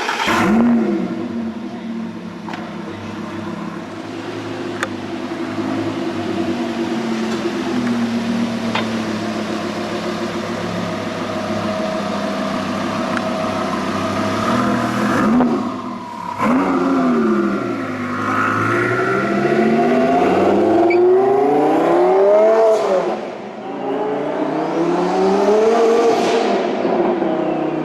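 Twin-turbo Lamborghini engine running at a steady idle for about fifteen seconds, then its engine speed rising and falling several times in smooth sweeps through the second half.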